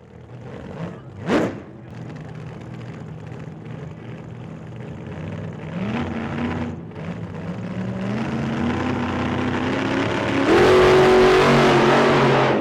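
Race car engine accelerating, with a short rushing burst about a second in, then the engine's pitch climbing in steps as it gains speed, growing louder and fuller near the end.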